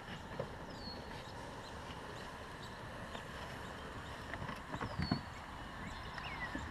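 Faint outdoor background hiss with a few short, falling bird whistles and scattered light knocks, several of them bunched together about five seconds in.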